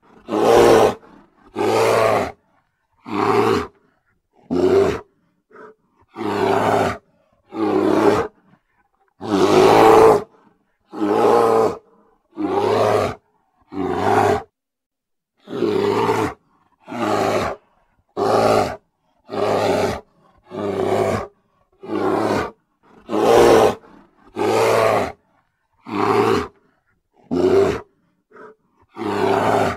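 A brown bear roaring over and over: about twenty short roars, each under a second long, coming every second and a half or so with silence between.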